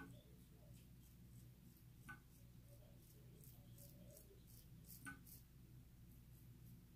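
Faint scraping of a CJB kamisori shavette's blade cutting through stubble in a series of short strokes, with a couple of small clicks.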